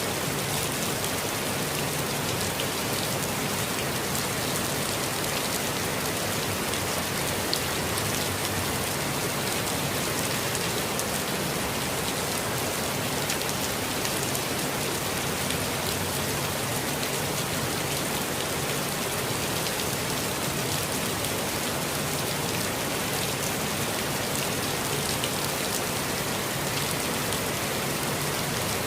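Steady rain falling, with a dense even patter of fine drops.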